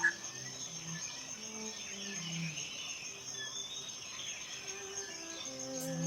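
Insects trilling steadily in a high, even band, over soft sustained low notes of ambient music that slowly change pitch. A short bird chirp sounds right at the start.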